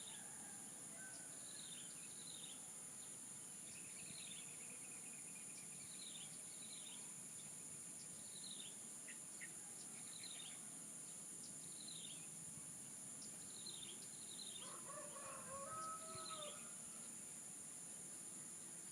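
Steady high-pitched insect drone, with a bird repeating short falling call notes, often in pairs, every second or so. A rooster crows once, faintly, about fifteen seconds in.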